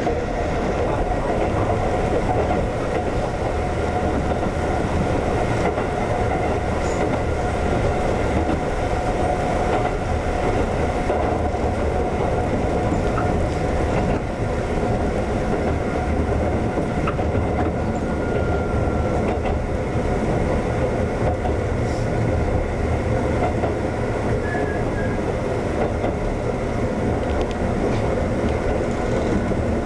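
Former Tokyu 7000 series electric train running along the track, heard from inside the car: a steady rumble of wheels on rail.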